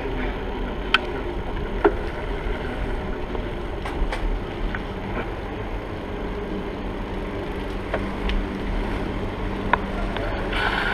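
Steady rumble of a bicycle ride heard from a bike-mounted action camera: wind on the microphone and tyre noise, with a few sharp clicks and knocks from bumps along the way.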